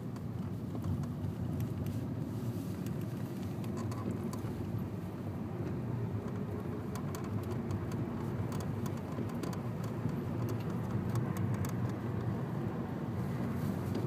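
Honda New Civic's engine and drivetrain running with a steady low rumble and scattered light ticks: the noise the owner traces to the clutch.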